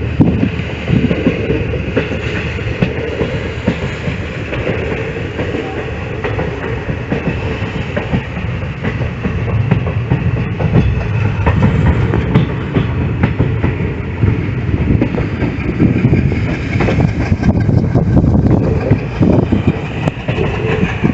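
Passenger train running, heard from on board: a steady rumble with wheels clacking over the rail joints.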